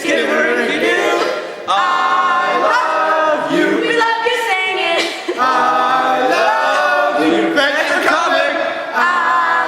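A group of voices singing together a cappella, in phrases with brief breaks about one and a half seconds and five seconds in.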